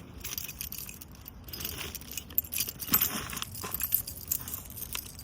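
Light metallic jingling and clinking, a run of irregular small clicks.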